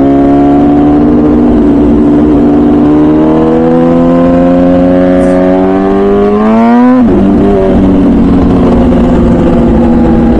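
MV Agusta Brutale 1000RR's 998cc inline-four, breathing through a full titanium Arrow exhaust, pulling hard: the revs climb steadily for about seven seconds, then drop sharply and hold at a lower, steady pitch.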